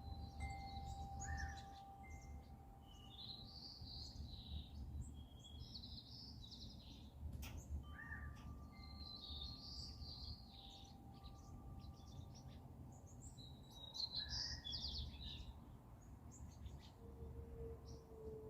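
Several songbirds singing and chirping, with repeated high, warbling phrases one after another, over a steady low background rumble.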